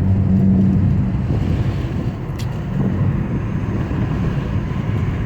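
Car driving on the road, heard from inside: steady engine and road noise, with a low hum strongest in the first second and a single click about two and a half seconds in.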